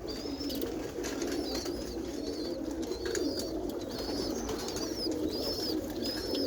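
Domestic pigeons cooing continuously. Over the cooing, a small bird repeats a short high chirp about once a second.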